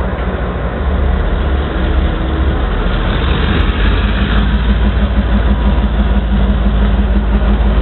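Locomotive engine running with a steady low rumble, growing a little louder and fuller about three seconds in.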